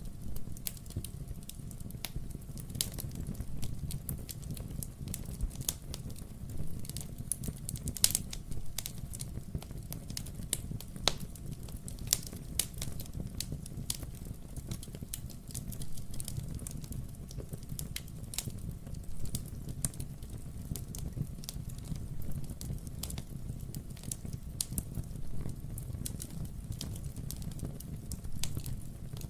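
Wood fire burning in a fireplace: irregular crackles and pops over a steady low rumble of the flames, with a few louder pops.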